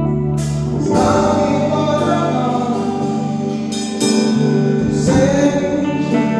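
Worship band music: a slow gospel song with singing held over sustained chords, and several bright hits that ring out.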